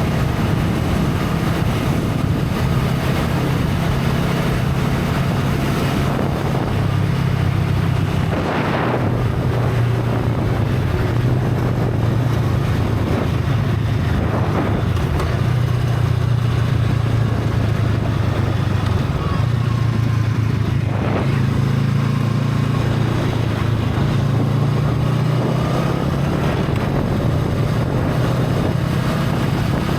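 Honda Rebel 500's parallel-twin engine running through its stock exhaust while riding, a steady low hum whose pitch shifts a few times as the speed changes.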